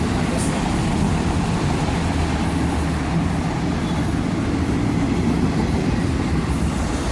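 A freight train's autorack cars rolling past at close range: a steady, unbroken rumble of steel wheels on the rails.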